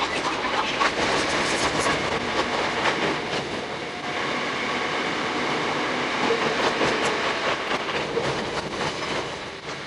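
Hakone Tozan Railway 2000 series electric train running, with a steady wheel-on-rail rumble and frequent quick clicks from the track.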